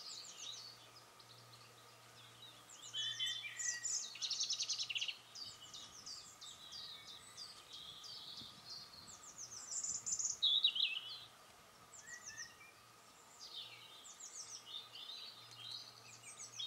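Songbirds singing: repeated short phrases of high chirps and quick trills, busiest about three to five seconds in and loudest again about ten seconds in.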